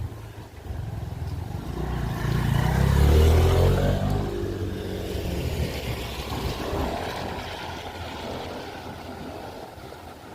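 A motor vehicle driving past: engine and road noise swell to a peak about three seconds in, with the pitch falling as it goes by, then fade away slowly.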